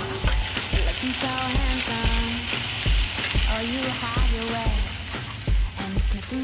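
Redfish and onions sizzling as they fry on a grill, a steady bright hiss. Background music with a steady beat plays over it.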